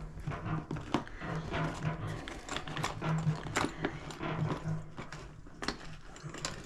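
Scattered clicks and knocks of parts and tools being handled, over an on-and-off low hum.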